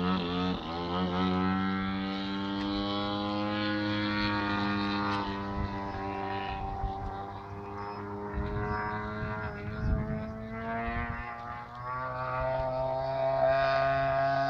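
Model aircraft's propeller engine running. Its pitch climbs as it throttles up in the first second, then holds with slight wavering, and shifts again about twelve seconds in.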